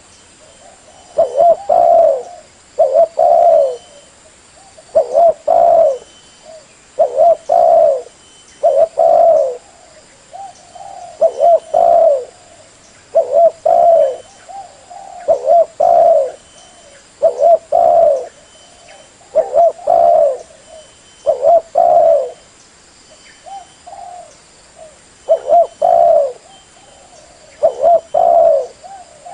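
Spotted dove (terkukur) cooing over and over: a short phrase of a few coos, repeated roughly every two seconds.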